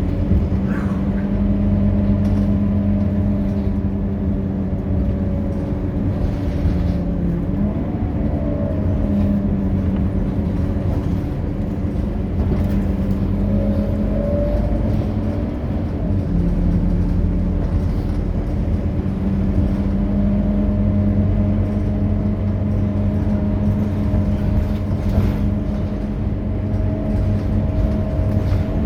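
Scania K230UB bus's five-cylinder diesel engine running steadily on the road, its pitch shifting a few times as the bus changes speed.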